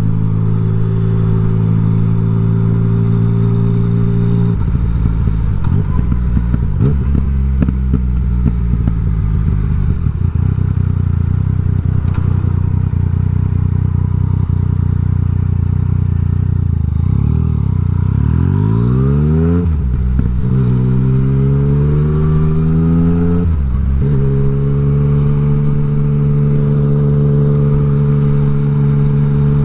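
Yamaha MT-09 inline-three engine running through an Akrapovič exhaust with the dB killer removed. It holds a steady note, then about two-thirds of the way in the revs climb sharply, drop back briefly and climb again before settling to a steady note.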